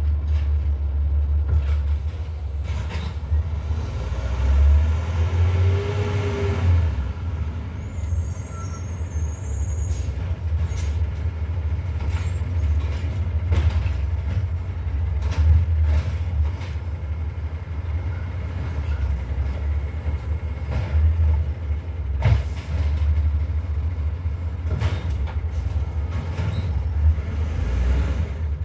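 Garbage truck's diesel engine running with a steady heavy rumble, with scattered knocks and clanks and a brief hiss about five seconds in.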